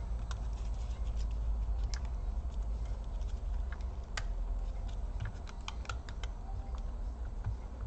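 Irregular small clicks and taps of a laptop's plastic and metal parts being handled during disassembly, over a steady low hum.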